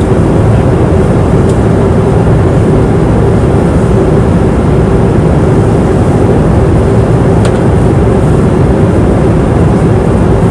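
Airplane cabin noise in flight: a steady, loud roar of engines and rushing air with a constant hum running through it, and two faint ticks.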